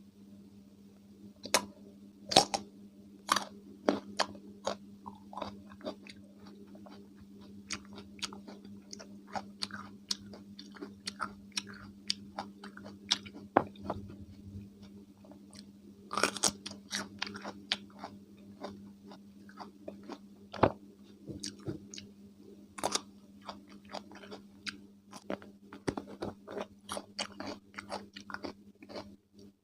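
Close-miked crunching and chewing of raw cucumber with mayonnaise: irregular crisp bites and chews, with louder clusters of crunches at several points.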